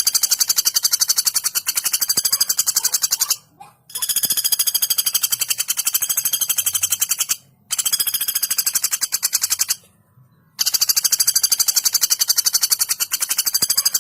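Female pelatuk bawang woodpecker calling in long, fast rattling trills of about ten notes a second. Four runs, split by short pauses just before 4 s, near 8 s and about 10 s in.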